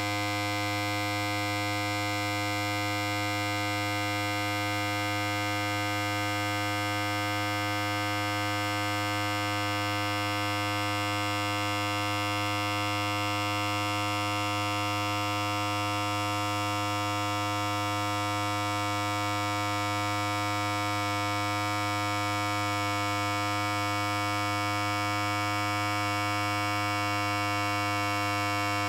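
Electric hair clipper running continuously: a steady, even buzz with a strong low hum under it, unchanging in pitch and level.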